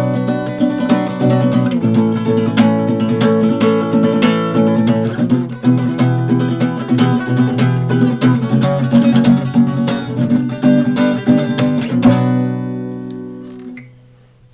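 Acoustic guitar strummed in a steady rhythm, ending on a final chord about twelve seconds in that rings out and fades away.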